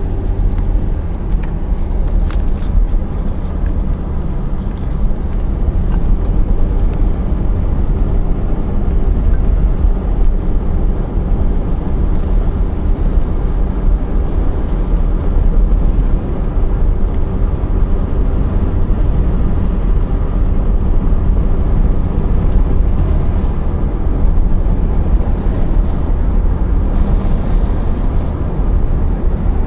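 Car driving along a road: a steady low rumble of engine and tyre noise that holds evenly throughout.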